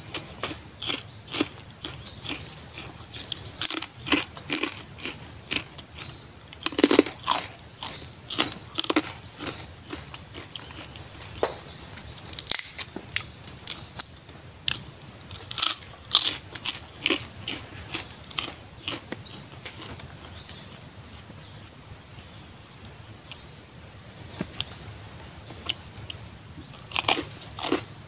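Close-up chewing and crunching of crisp food in irregular crunches. Birds chirp in short runs several times, over a steady high-pitched whine.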